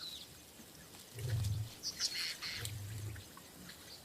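Two low growls from lions feeding at a giraffe kill, the first about a second in and the second near the end, with small birds chirping.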